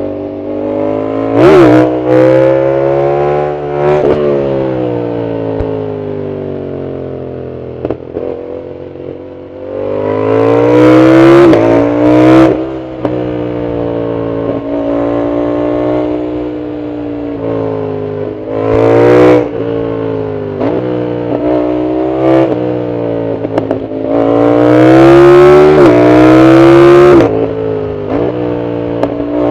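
Yamaha MT-07's parallel-twin engine through a loud aftermarket full exhaust, ridden hard: repeated surges of throttle with the pitch climbing, dropping sharply at gear changes, and a few seconds of slowing, falling pitch in between. The longest and loudest pull comes near the end.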